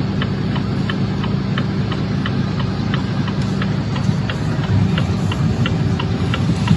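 Vehicle engine idling steadily, with a regular light ticking about three times a second over the hum.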